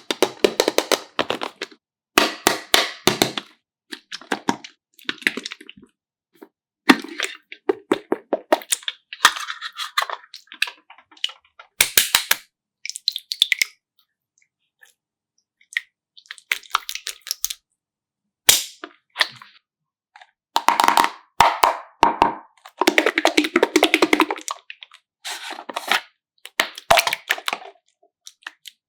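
Repeated bursts of sharp crackling and clicking, each lasting a second or two, with short pauses between them.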